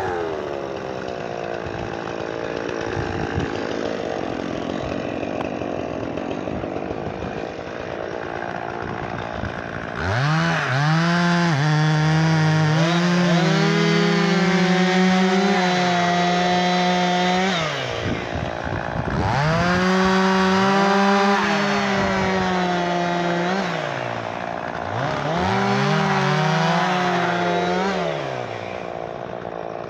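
Chainsaw running at high revs, its pitch dropping away and climbing back several times as the throttle is eased off and opened again. It is louder from about a third of the way in.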